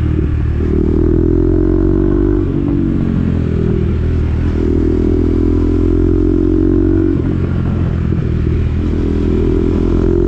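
KTM Duke 390's single-cylinder engine through an SC-Project exhaust with its dB-killer fitted, running under way as the bike is ridden. The engine note holds, dips and changes pitch a few times as the throttle is worked, and climbs again near the end.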